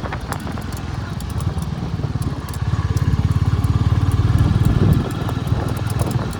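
Royal Enfield Classic 350's single-cylinder engine running under way with its steady low thump, growing louder about two and a half seconds in and easing back down around five seconds in.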